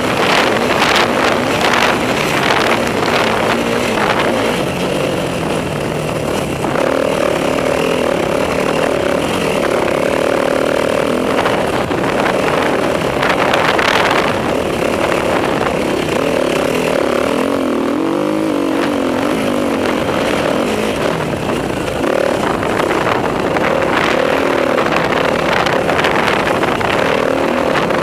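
Enduro motorcycle engine being ridden hard, revving up and down as the throttle opens and closes, with a dip in engine pitch around the middle before it climbs again.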